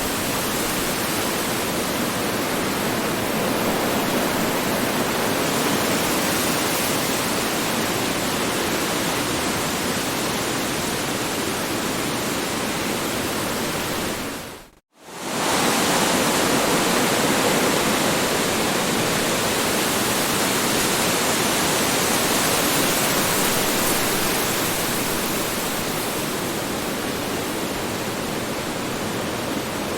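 Strong wind blowing as a dense, steady rush of noise. About halfway through it fades out to near silence for a moment, then comes straight back.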